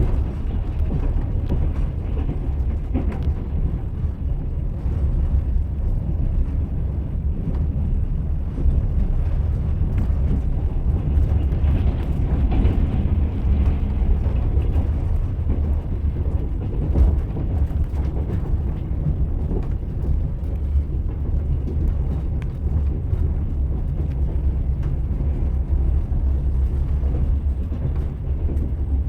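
A moving train's steady low rumble, with its wheels clattering over the rail joints.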